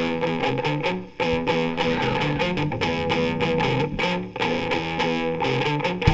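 Distorted electric guitar playing a repeating stoner-rock riff of held notes, with a brief break about a second in and again near four seconds.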